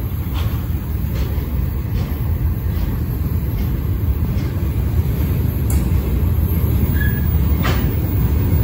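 Freight train cars, a double-stack well car then open-top gondolas, rolling past slowly: a steady low rumble of steel wheels on rail, with a few faint clicks.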